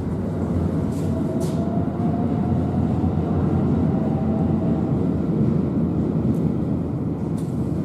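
Electric passenger train moving at a station platform: a steady rumble of wheels and running gear with a faint motor whine that rises slightly in pitch, and a few sharp clicks.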